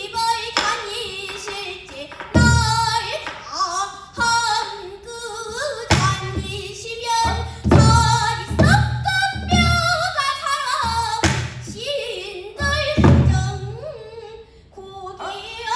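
Pansori singing by a young female singer, long bending notes with a wavering vibrato, over low drum strokes every second or few from the buk barrel drum that accompanies pansori.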